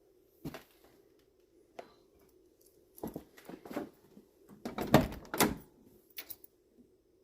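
Scattered knocks, bumps and rustling from a person squeezing into a tight space by a parked car, with a cluster of louder thumps about five seconds in. The engine is not running.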